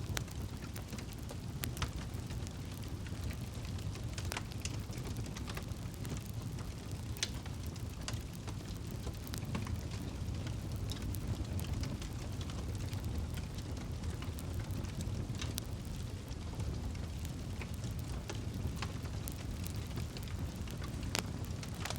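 Campfire burning: scattered sharp crackles and pops at irregular intervals over a steady low rumble of the flames.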